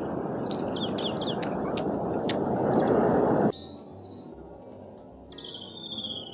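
Strong gusting wind rushing over the trail camera's microphone, cutting off abruptly about halfway through, with small songbirds chirping and giving short high calls over it and a few sharp clicks. After the cut, quieter high descending bird calls go on.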